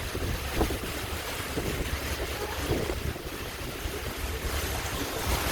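Wind buffeting the microphone on the deck of a moving ship, over the low rumble of the vessel and rushing water.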